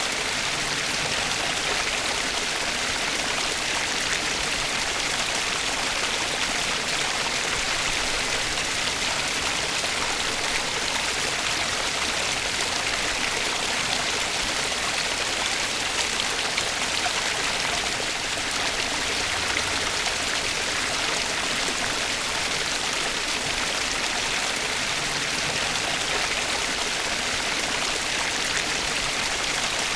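Stream water flowing steadily: an even, unbroken rushing hiss with no changes.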